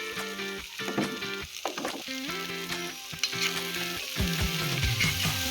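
Onion frying in hot fat in a kazan, with a steady sizzle that grows louder about four seconds in, over background music.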